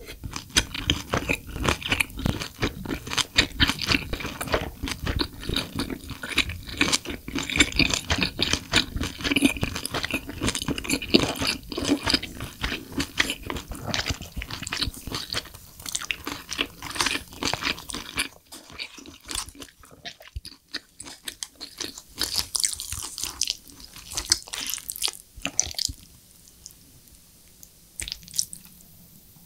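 Close-miked chewing and wet mouth sounds of someone eating spicy braised lobster tail. Later, wooden tongs and chopsticks clack against the lobster. The sound drops low for the last few seconds.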